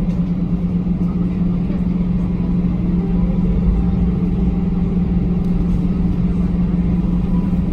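Steady cabin drone of an Airbus A321 taxiing on the ground, its engines at idle: a constant hum with a low rumble underneath.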